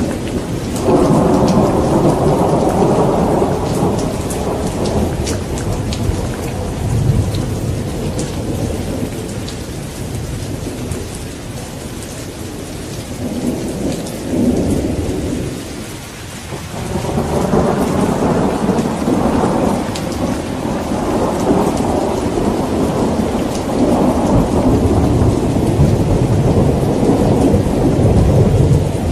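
Steady heavy rain with rolling thunder. One long rumble swells about a second in and fades by the middle. A second rumble builds after a brief lull and carries on to the end.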